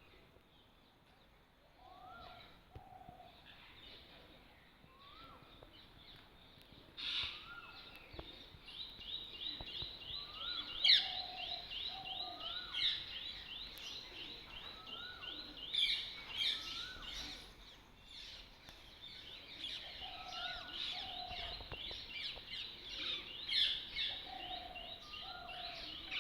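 Several birds calling in the early morning. Short rising whistles repeat every second or two, with pairs of lower notes, and about a third of the way in a fast, high, steady trill starts and keeps going.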